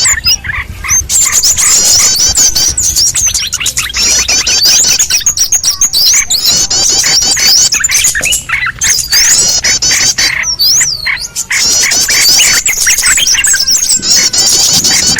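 A dense chorus of many small birds chirping and twittering at once, fast overlapping high-pitched chirps and short sweeping notes, a lure recording for trapping small birds.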